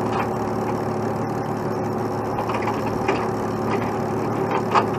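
Heavy tow truck's diesel engine idling steadily, with a few short knocks and a louder clank near the end.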